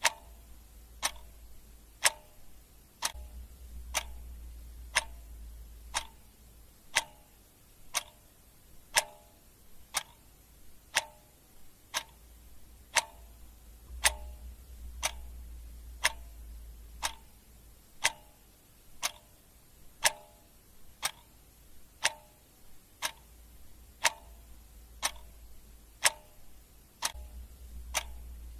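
Clock ticking steadily, about one tick a second, with alternate ticks differing slightly in tone like a tick-tock.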